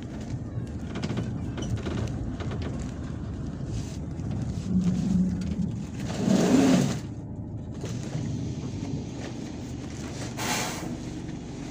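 MAZ-257 bus heard from inside, running with a steady low rumble. There is a brief steady tone about five seconds in, then a loud burst of noise around six seconds and a short sharp hiss near the end.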